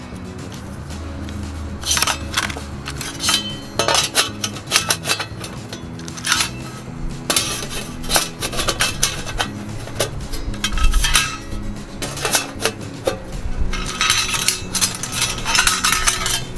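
Stainless-steel plates and grate of a compact fire pit clinking and clanking as they are handled and slotted together, over background music.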